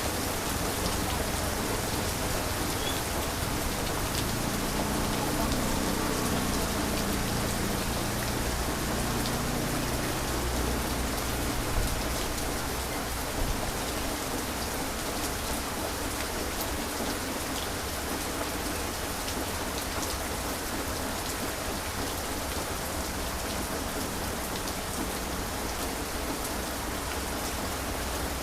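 Heavy rain falling steadily on surfaces, with a low rumble of distant thunder swelling from about four seconds in and fading by about ten seconds.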